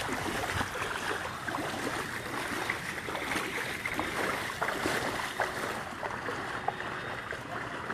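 Water sloshing and splashing steadily as people wade on foot through street floodwater, with small scattered splashes.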